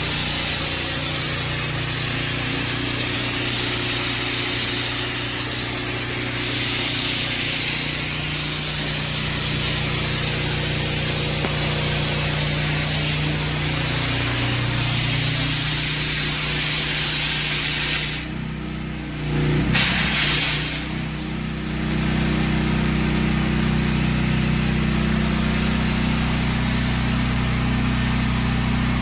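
Pressure washer spraying water, a loud steady hiss over the even hum of its gas engine, wetting down the house and plants before soft washing. The spray cuts out for about two seconds about two-thirds of the way through, then resumes.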